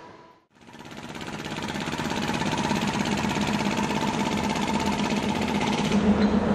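WAP-5 electric locomotive and its train approaching, a rapid rattling buzz growing steadily louder over several seconds. The sound drops out briefly about half a second in, then builds again.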